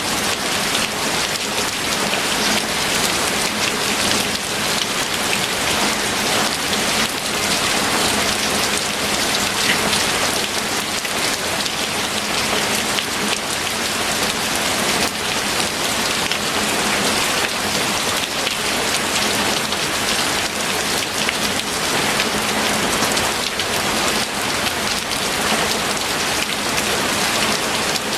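Steady heavy rain falling on a surface, a dense even hiss of many drops.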